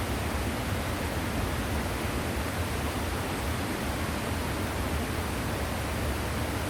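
Small waterfall splashing steadily, a constant even rush of falling water with a deep rumble underneath.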